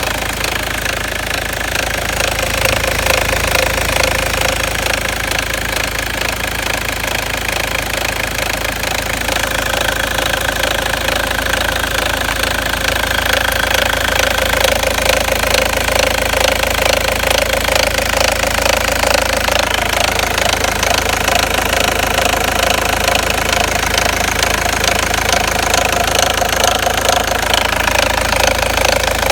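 Opel Astra G engine running steadily with a fast, even ticking or knocking in it, the strange engine noise the owner is puzzled by.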